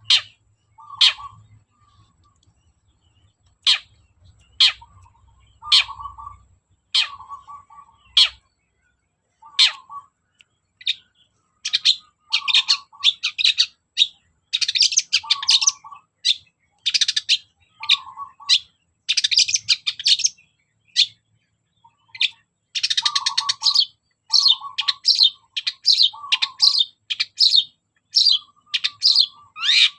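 Long-tailed shrike (cendet) singing: separate sharp high calls about a second apart at first, then from about eleven seconds in a dense run of rapid phrases, with a lower repeated note mixed in throughout.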